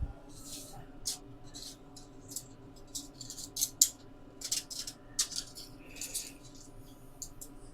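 Irregular light clicks and rattles of metal parts and tools being handled during setup, over a steady low hum.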